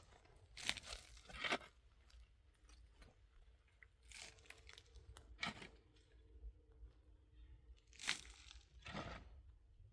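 Irregular crunching and crinkling sounds: about six short bursts, a few seconds apart.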